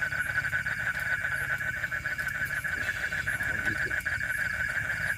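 Frogs calling in a dense, unbroken chorus of rapid trills, with fainter repeating chirps above it.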